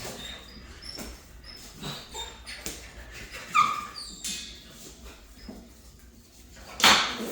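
German shorthaired pointer puppies playing over a pheasant wing: short high yips and whines, with one louder yelp about three and a half seconds in, amid scuffling and clicking, and a loud scuffle near the end.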